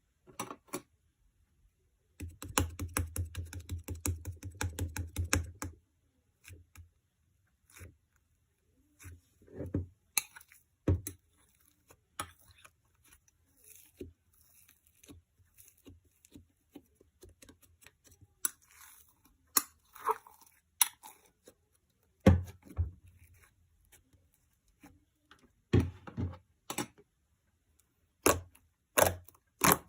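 Scattered sharp clicks and taps, with a dense run of rapid tapping about two seconds in that stops near six seconds.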